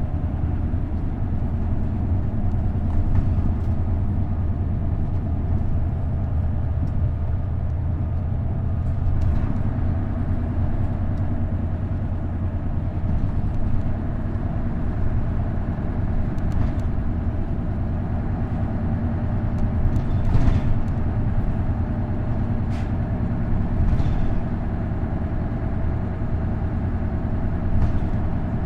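Isuzu Erga route bus's V8 diesel engine running at a steady pace while the bus drives along, a constant low drone, with a few brief knocks and rattles scattered through it.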